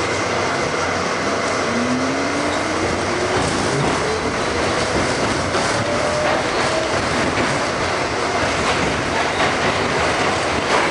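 New York City Subway R68 car running along the track: a steady rumble and hiss, with a whine that rises in pitch over several seconds as the train gathers speed, and wheels clicking over rail joints in the second half.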